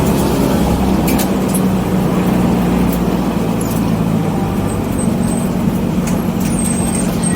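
A 1984 BMW 318i's four-cylinder engine running steadily, with road and wind noise; its pitch shifts slightly about halfway through.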